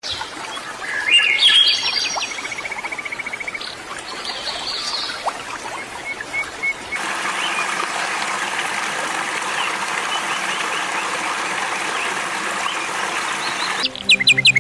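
Wild birds singing: separate chirps and a rapid trill of evenly repeated notes. About seven seconds in, it changes abruptly to a dense chorus of many small chirps over a steady hiss.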